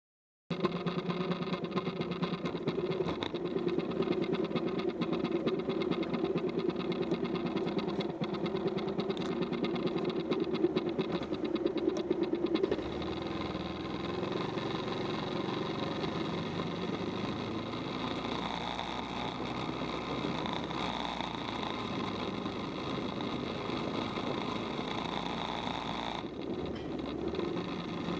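Bajaj Pulsar motorcycle's single-cylinder engine running while ridden at low speed. The engine note is louder and pulsing for the first half, then settles to a quieter, steadier run about halfway through.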